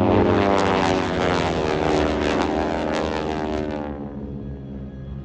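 Propeller airplane flying past: a loud engine drone whose pitch drops as it goes by, fading away about four seconds in.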